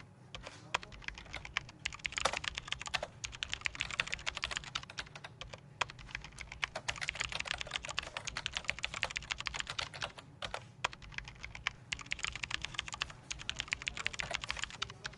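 Computer keyboard typing: fast runs of keystrokes with brief pauses between them, over a low steady background hum.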